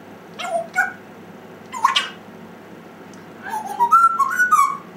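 African grey parrot whistling and calling: two short calls, a sharp rising note about two seconds in, then a quick run of whistles jumping up and down in pitch near the end.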